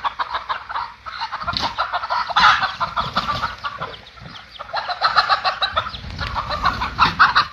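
Several chickens clucking at once, a dense run of short overlapping calls that goes on throughout.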